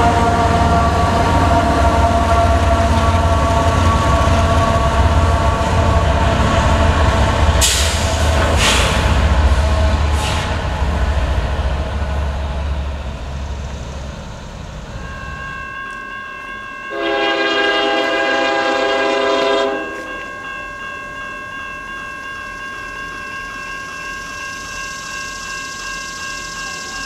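A freight train passing close, a heavy low rumble with a few sharp wheel clicks that fades away. Then a distant diesel locomotive's air horn sounds one long blast of about three seconds.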